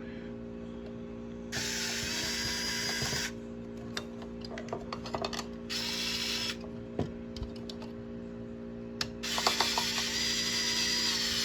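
Small power screwdriver running in three bursts as it backs screws out of a circuit board, with small clicks of the screws and parts being handled between runs.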